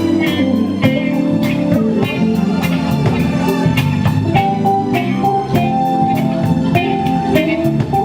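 Live band playing an instrumental soul-blues groove, electric guitar leading over keyboards with a steady beat.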